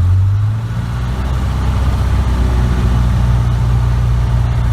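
Light aircraft's piston engine held at about 1700 RPM for the pre-takeoff run-up check, running steadily after a brief dip and settling of pitch in the first second.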